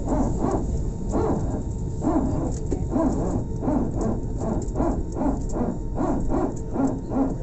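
Steady low rumble of an airliner cabin, with indistinct, muffled voices of people talking over it.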